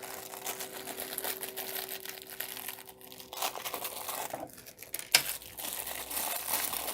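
Packaging crinkling and rustling as a boxed model airplane and its stand are unwrapped by hand, with a sharp click about five seconds in.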